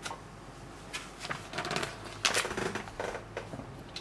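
Small plastic LEGO pieces clicking and clattering as they are handled and picked through by hand, in a series of light clicks and short rustles starting about a second in.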